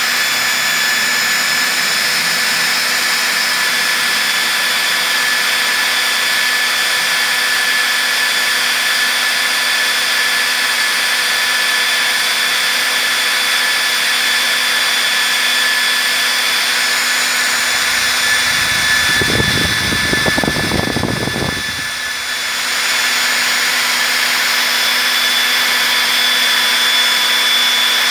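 Hair dryer running steadily: a rush of air over a high motor whine. About eighteen seconds in a low rumble comes up for a few seconds and the sound dips briefly, then it runs steady again.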